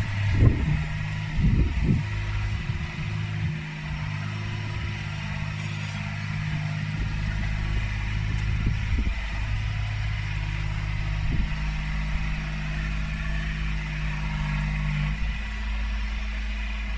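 Yanmar B22 mini excavator's diesel engine running steadily while digging, with a few louder bumps in the first two seconds. A deeper rumble joins about seven seconds in.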